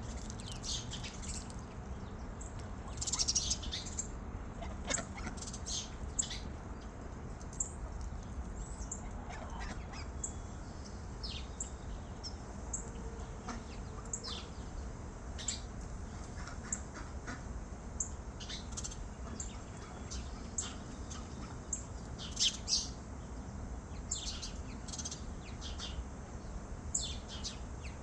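Small birds chirping: many short, high chirps scattered throughout, with a louder cluster about three seconds in and two more near the end, over a steady low background noise.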